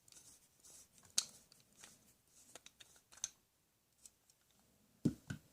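Faint scattered clicks and rustling, like small objects being handled, with a louder low thump near the end.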